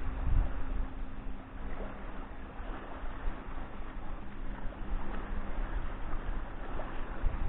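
Wind buffeting the microphone in uneven gusts over water lapping at the shore, with a faint steady low hum underneath.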